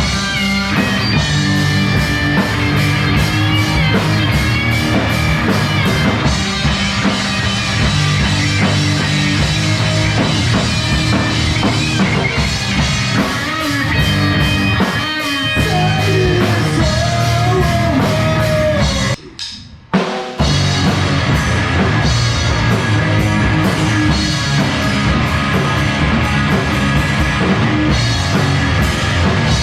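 A rock band jamming: a drum kit and guitar playing loud, heavy rock, with a brief break in the sound about two-thirds of the way in.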